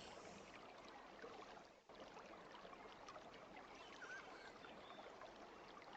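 Near silence: a faint steady background hiss, which drops out briefly about two seconds in.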